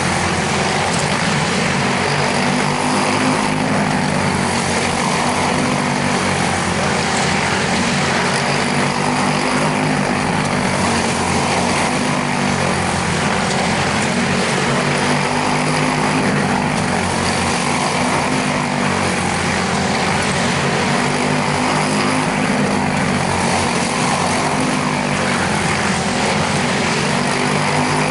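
Quarter midget race cars with Briggs & Stratton Animal single-cylinder engines running at racing speed on the track. The engine note swells and fades about every six seconds as the cars circle.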